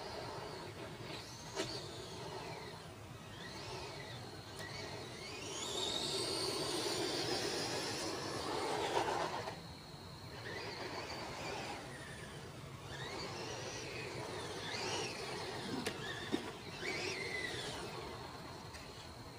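Short course RC truck's motor whining, rising and falling in pitch again and again as the truck speeds up and slows, with a louder rushing stretch about six to nine seconds in and a few sharp knocks.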